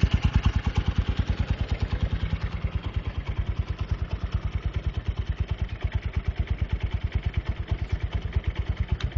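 Honda Tiger Revo's single-cylinder four-stroke engine idling through its stock muffler with the insides gutted: a steady, rapid train of exhaust pulses, about ten a second. The pulses cut off suddenly just before the end.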